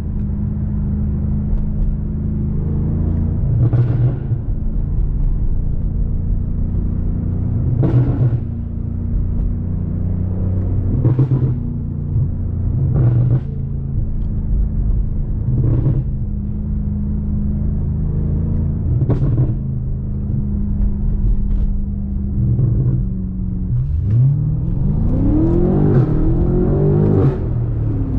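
BMW M5 Competition's twin-turbo V8 running at low, steady revs while cruising, with short thumps every few seconds. About 24 seconds in it revs up under acceleration, its pitch climbing steeply, then drops near the end as it shifts gear.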